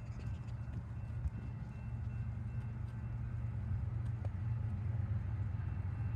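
Train rumbling, a steady low rumble that slowly grows louder.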